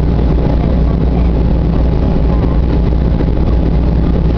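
Steady low rumble of a Boeing 737-800's CFM56 jet engines and airflow heard from inside the passenger cabin, holding even with no change in pitch or loudness.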